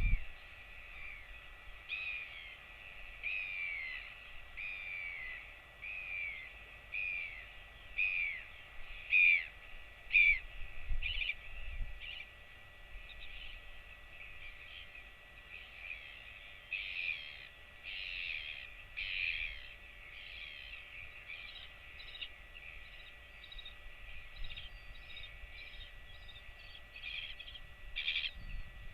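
A bird calling: a run of short whistled notes, each sliding downward, about one a second. From about halfway on it turns into a quicker, more ragged series of chirps, over a faint steady hum.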